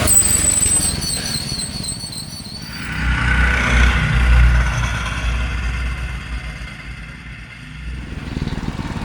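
Minibike engines running hard during a drag race. The sound swells about three to five seconds in, fades, then builds again near the end.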